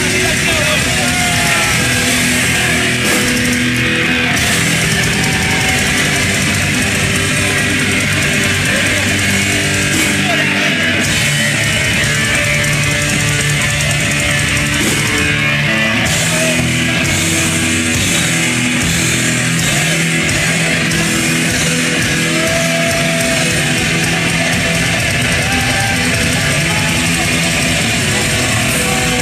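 Heavy metal band playing at a steady high volume, with electric guitars over bass and drums.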